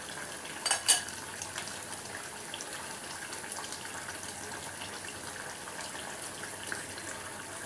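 A metal spatula clinks against the pan twice about a second in, then chicken frying in oil gives a steady, soft sizzle as it is browned (kosha).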